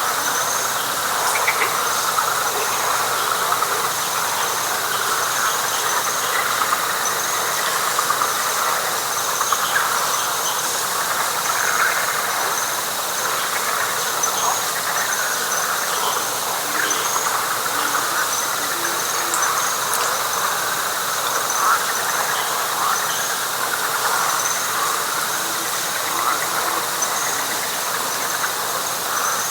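A dense night chorus of frogs calling together, steady throughout, with a high, rapidly pulsing trill running above it and a few scattered short low notes.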